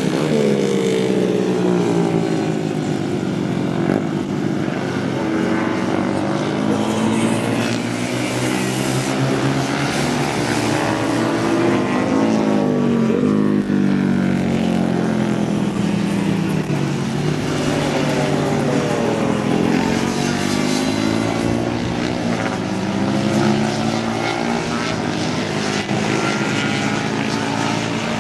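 Several vintage racing motorcycle engines running hard together, their pitches repeatedly dropping and climbing again as the bikes brake, change gear and accelerate past, overlapping the whole time.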